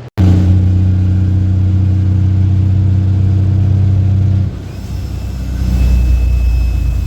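Cummins M11 inline-six diesel of a loaded International 8100 dump truck pulling steadily under load. About four and a half seconds in, the engine note drops to a lower, quieter pitch.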